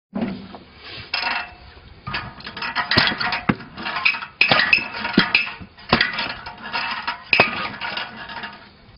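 Firewood-splitting rig at work: irregular knocks and metallic clinks of metal striking wood and metal, with louder strikes about three and a half, five and seven and a half seconds in.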